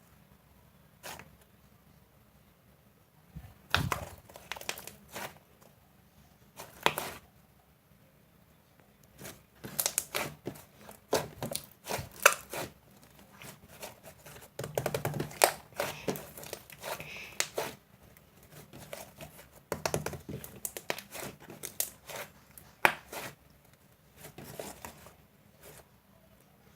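Slime being played with by hand: irregular bursts of crackling and popping clicks, coming in clusters with short quiet gaps between them.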